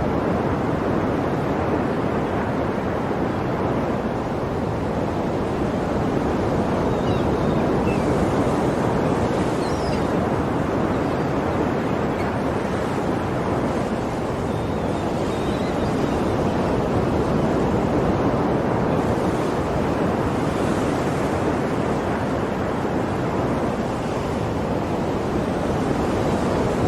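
Sea waves breaking and washing on a shore in a continuous surf, swelling and easing slowly about every ten seconds.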